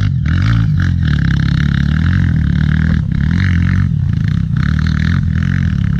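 Single-cylinder four-stroke Honda CRF trail-bike engine running steadily under load on a climb, with short dips in level now and then.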